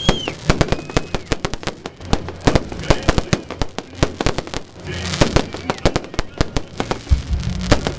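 Fireworks display: a dense, irregular run of sharp bangs and crackles, several a second, with no pause.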